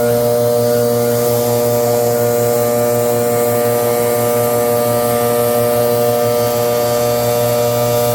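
Leaf blower running steadily at constant speed, a loud engine drone with a rush of air.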